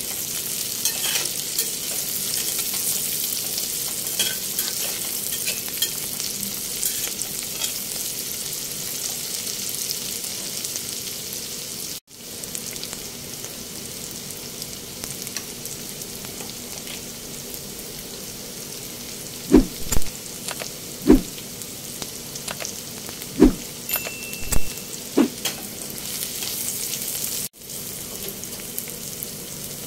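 Chopped onions and spring onions sizzling in hot oil in a stainless-steel wok, with a metal spatula stirring and scraping. The sizzle is louder in the first part. Later there is a quieter stretch broken by about half a dozen sharp low knocks.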